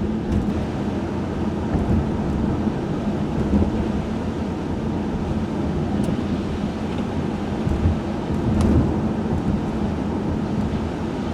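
Cabin sound of a 1995 Chevrolet Monte Carlo being driven: a steady engine hum under the rushing noise of tyres on a wet road, with a few low rumbles.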